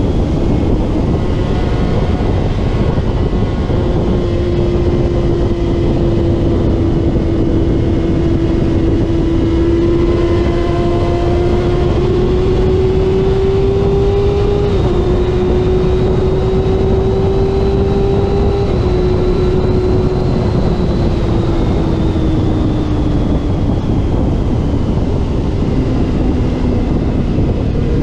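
Racing motorcycle engine running hard at high revs under heavy wind rush. Its pitch climbs slowly, steps down at gear changes about 15 and 19 seconds in, then falls away from about 20 seconds as the bike slows.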